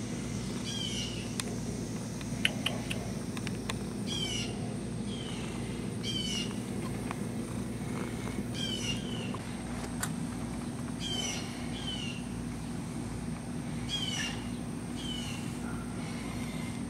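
A songbird calling over and over, about every one to two seconds: each call a quick, rapid high trill followed by a short downward chirp. A couple of faint clicks come about two and a half seconds in.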